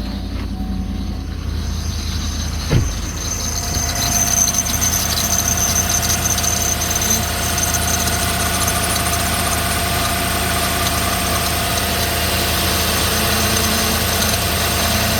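Chevrolet Suburban 5.3-litre V8 running with a steady squeal from a bad serpentine belt tensioner. There is a short knock about three seconds in, and the sound grows louder after it.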